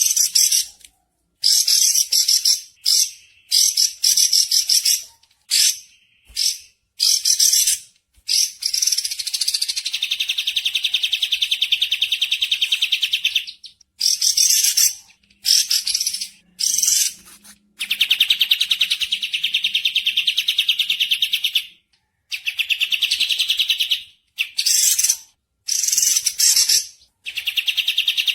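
Songbird calls: loud, fast, high-pitched chattering trills and chirps in repeated phrases broken by short gaps, some phrases drawn out into long rattling trills of several seconds.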